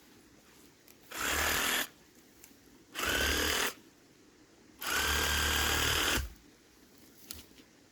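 Reciprocating saw run in three short bursts, its motor spinning up to a steady high whine each time; the first two last under a second and the third about a second and a half.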